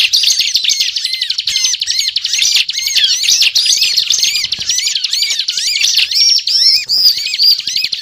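Bar-winged prinia (ciblek) singing nonstop with rapid trills: a dense, fast chatter of high notes. About three quarters of the way in it turns into a quicker series of separate rising-and-falling notes.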